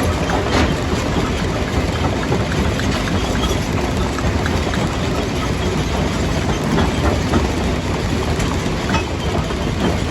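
Stone jaw crusher running under load: a steady heavy rumble from the machine with many sharp cracks and knocks of rock breaking scattered through it.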